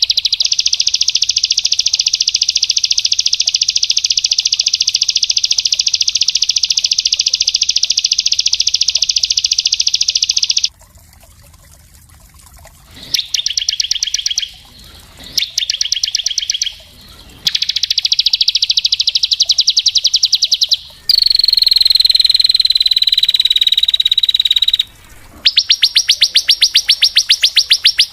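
Small songbird song of rapid, tightly spaced trills: one unbroken high trill lasting about ten seconds, a brief pause, three shorter trill bursts, a held whistled note that slides slightly down, then another fast trill.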